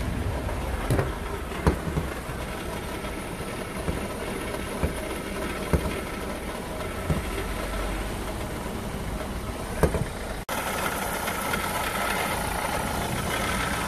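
Renault Clio 3's 1.5 dCi four-cylinder diesel idling, with short sharp knocks now and then over the steady running. This is the intermittent noise that comes and goes, which the owner suspects comes from the high-pressure fuel pump rather than the alternator. About ten seconds in the sound breaks off abruptly and carries on brighter.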